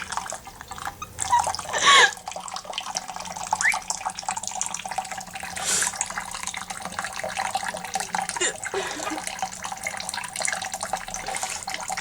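Tap water running steadily into a sink for a quaker parrot's bath, with a couple of short, high squeaks about a second and two seconds in.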